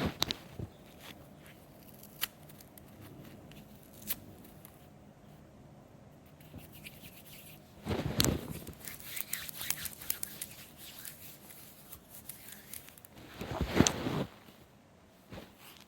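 A sponge being torn and scraped by hand: a few sharp single clicks at first, then scratchy crackling tearing in bursts, one about eight seconds in and the loudest near the end.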